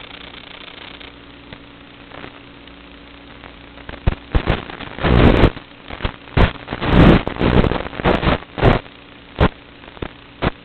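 FPV quadcopter on Kingkong 5040 three-blade propellers: the motors hum steadily, then from about four seconds in come a series of loud, rushing bursts as the throttle is punched repeatedly.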